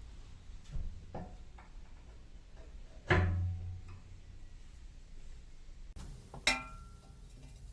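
Steel pieces knocking together as they are handled: a few light knocks, then two loud clanks about three seconds apart, each ringing briefly.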